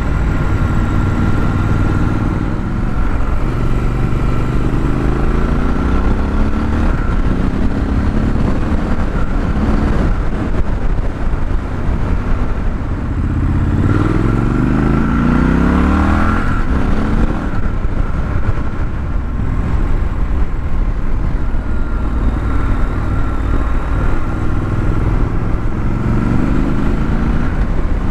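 2021 Triumph Scrambler 1200 XE's 1200 cc parallel-twin engine on its stock exhaust, heard from on the bike while riding. It accelerates through the gears several times, its pitch rising in each gear and dropping at each shift, with the longest, hardest pull about halfway through.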